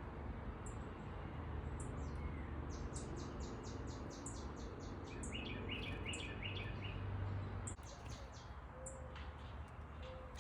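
Small songbirds chirping at a backyard feeder, with a quick run of high, evenly spaced chips from about three seconds in, over steady low background noise.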